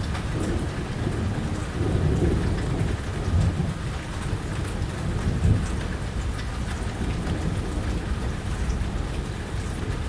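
Steady heavy rain falling, with low thunder rumbling through the first half or so.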